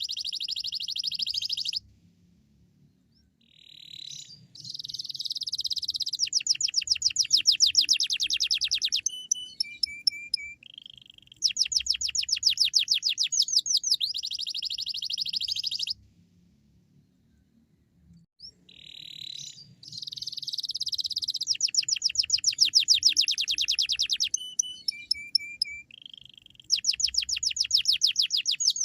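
Domestic canary singing: long phrases of rapid trills, each a fast run of the same short note repeated, broken by two pauses of about two seconds.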